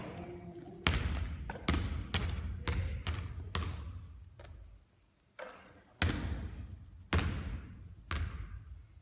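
A basketball bouncing again and again on a hard court. The bounces come fast at first and then about a second apart, each one ringing on briefly after the hit.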